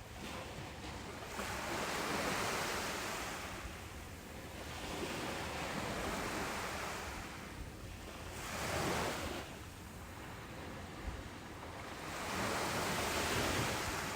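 Ocean waves breaking on a beach, the surf swelling and easing about four times, with the sharpest surge a little past the middle.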